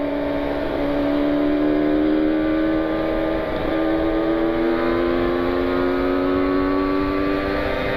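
Kawasaki Ninja 150 RR single-cylinder two-stroke motorcycle engine and exhaust running at steady high revs while riding, its pitch creeping slowly upward in the second half, with wind noise.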